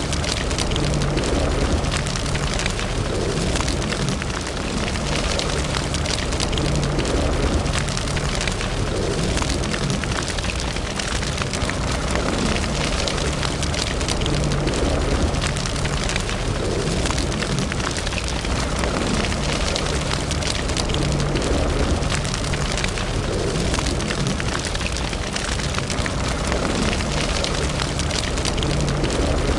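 Wood fire burning in a fireplace, crackling steadily with many small pops over a low rumble of flame.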